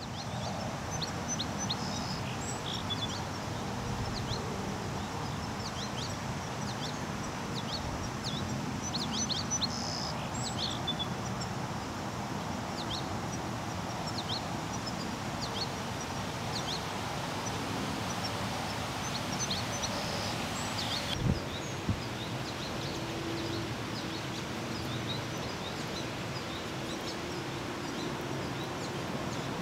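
Outdoor riverside ambience: small birds chirping many times in short, high, falling notes over a steady low rushing noise. Two short thumps come about two-thirds of the way through.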